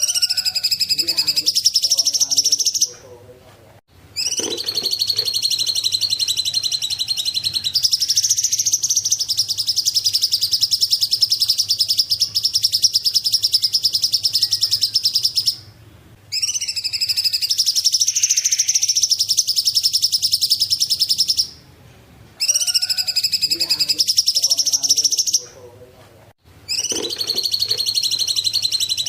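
Cungkok bird singing long, rapid trilled phrases of several seconds each, separated by short pauses of about a second.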